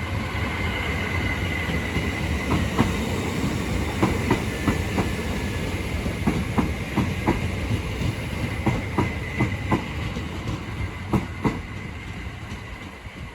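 Class 455 electric multiple unit arriving, its wheels clicking irregularly over rail joints under a steady rumble with a thin high whine. The sound dies away near the end.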